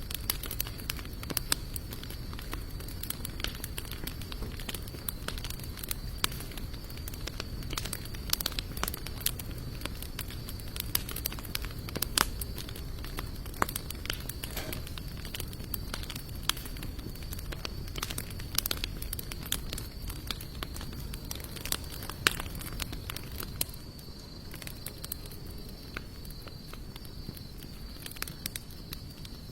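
Campfire of sawtooth oak and mixed hardwood logs burning steadily, crackling with frequent sharp pops and snaps over a low rushing hiss. A steady thin high-pitched tone runs underneath.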